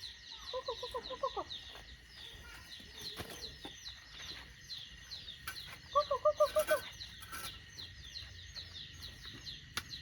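Chickens: a hen clucking in two quick runs of rapid notes, about a second in and again around six seconds, over continual high, falling peeps.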